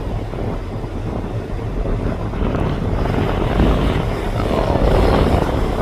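Wind rushing over the microphone aboard a moving ferry, over the low rumble of the ship's engines. The noise grows louder about three and a half seconds in.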